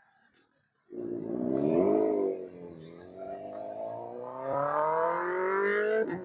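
Motorcycle engine accelerating, starting about a second in, its pitch climbing steadily as it pulls through a gear, then dropping at a gear change near the end and rising again.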